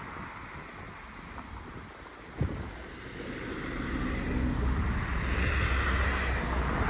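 Diesel multiple unit standing at the platform with its engines running: a low, steady rumble that grows louder from about three seconds in. Wind buffets the microphone, and there is a single knock about two and a half seconds in.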